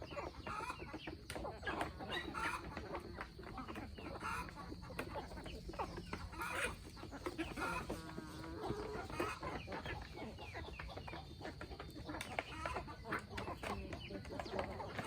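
Free-range chickens clucking, many short calls overlapping, over a steady patter of small clicks and taps.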